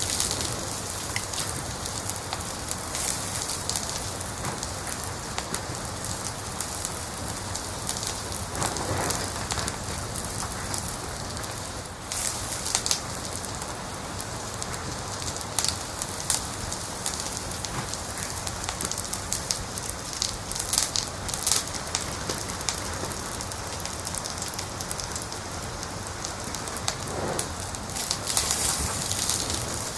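Wood fire crackling in a fireplace: a steady hiss dotted with frequent sharp pops and snaps.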